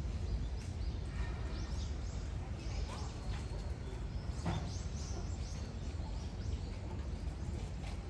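Small birds chirping in many short, high calls over a steady low outdoor rumble.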